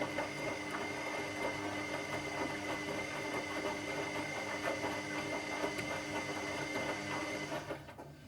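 Washing machine running: a motor whine with a steady high tone over a fine rattle of small clicks, which stops near the end, leaving a quieter low hum.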